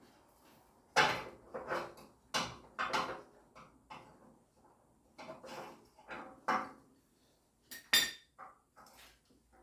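Metal tools and steel parts clanking and knocking against each other as they are handled: about a dozen irregular sharp clanks, loudest about a second in and again near the end.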